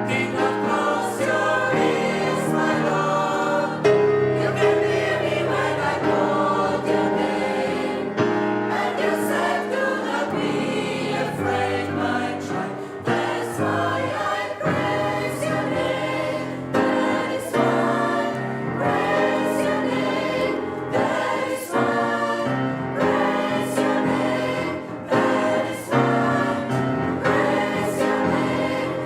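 Gospel choir singing a song in several voice parts, with sharp percussive hits recurring through it.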